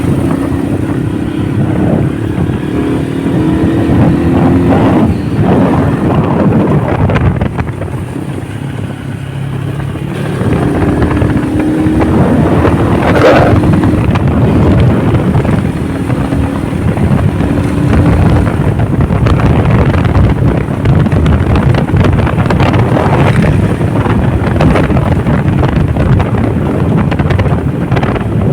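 Honda motorcycle engine running on the move, its pitch rising as it speeds up at the start and again about halfway through, over steady wind rumble on the microphone.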